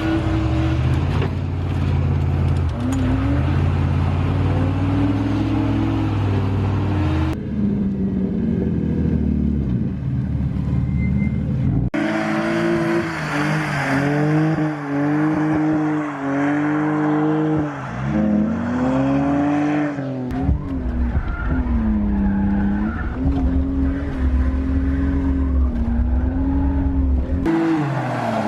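Car engine revving up and down hard while drifting on a wet road, with tyre skidding. The sound changes abruptly several times where clips are cut together.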